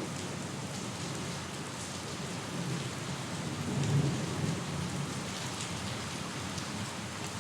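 Steady rain falling with scattered drop ticks, and a low rumble of thunder that swells about halfway through.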